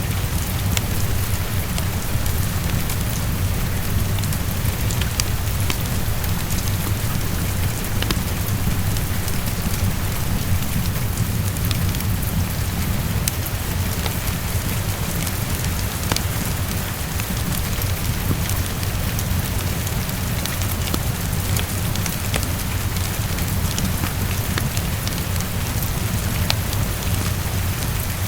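Heavy rain falling steadily against a window: an even hiss over a constant low rumble, with scattered sharp little ticks of drops striking throughout.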